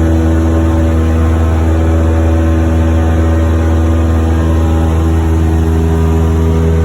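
Cessna 172's piston engine and propeller running at a steady, even drone.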